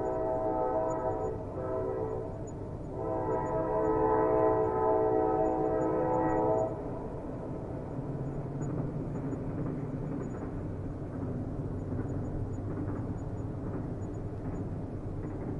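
Train horn sounding twice as a chord of several steady notes: a blast that ends about a second and a half in, then a longer one of about three and a half seconds that cuts off sharply. A steady low rumble of the passing train goes on beneath and after it.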